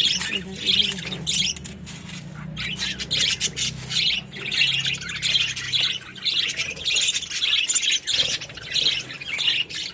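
Young budgerigars chirping and squawking in a rapid run of short, high calls.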